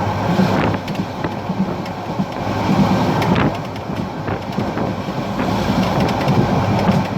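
Parabat Express passenger train running along the track: a steady rumble of wheels on rails, with a few sharp clacks as the wheels pass over rail joints.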